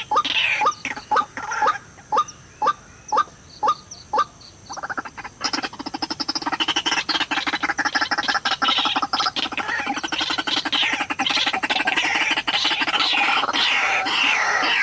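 White-breasted waterhen calling: a run of short, sharp calls about two or three a second, then from about five seconds in a dense, continuous croaking chatter.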